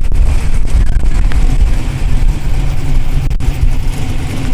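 Modified muscle-car engines running close by, a loud, uneven low rumble.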